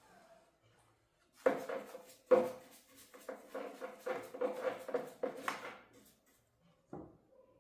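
A rapid run of knocks and clattering for several seconds, with a steady ringing tone under it, then one more knock near the end.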